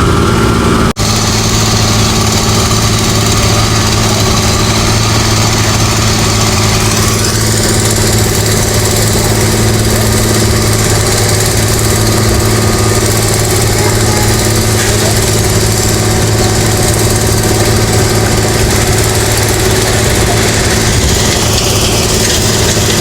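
Engine of heavy road-construction machinery running steadily at a constant pitch, with a momentary break about a second in.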